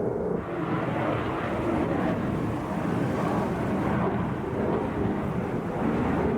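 Jet noise from a Sukhoi Su-57 fighter in flight: a steady, rushing engine noise heard from the ground, which grows brighter about half a second in.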